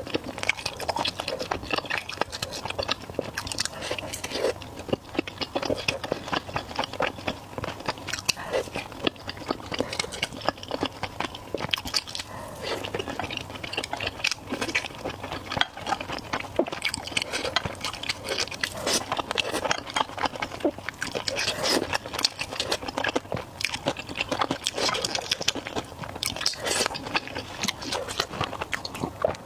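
A person chewing and biting food, a steady run of small wet clicks and crunches.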